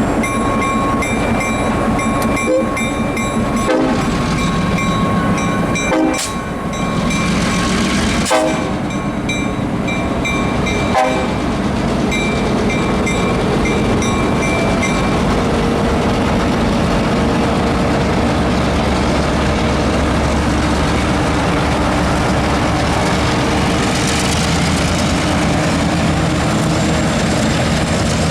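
Long Island Rail Road train passing a grade crossing, with the crossing bell ringing over its steady rumble. Wheels knock sharply over rail joints several times in the first ten seconds or so. The bell fades about halfway through and leaves the steady rumble of the passing cars.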